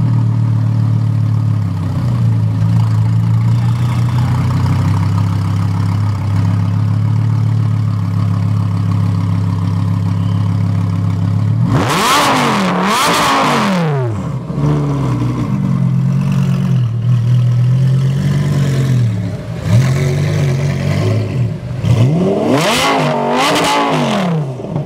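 Lamborghini Gallardo V10 engine idling steadily for about twelve seconds. It is then revved twice in quick succession, the pitch shooting up and falling back to idle. After more idling and a small blip, two more quick revs come near the end.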